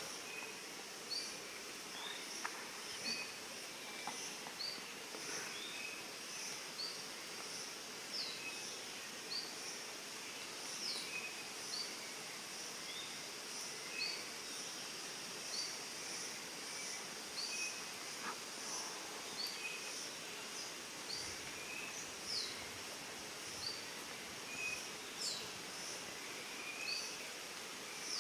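Forest ambience: a bird gives short, high chirps about once a second, with a few longer sweeping notes, over a steady high-pitched insect drone.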